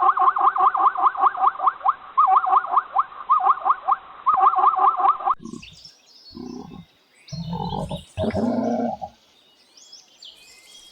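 Animal calls: a fast run of short rising chirps, about eight a second, that stops abruptly about five seconds in. Then come a few separate lower, grunting calls from a different animal.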